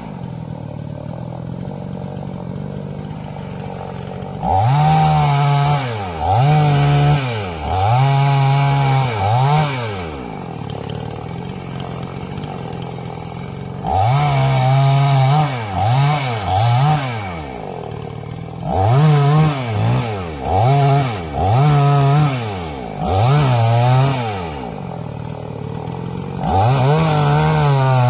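Tengchang 45cc two-stroke chainsaw idling, then revved again and again in short bursts with the pitch rising and falling on each, in runs separated by spells of steady idle.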